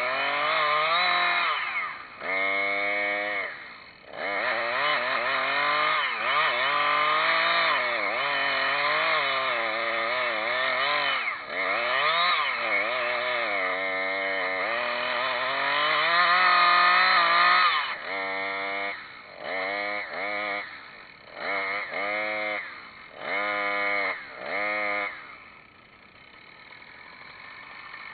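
Chainsaw cutting a dry sweet gum tree, the engine pitch dipping and rising under load. From about two-thirds of the way in come six short revs of the throttle with pauses between them, then the saw drops to a quiet idle near the end.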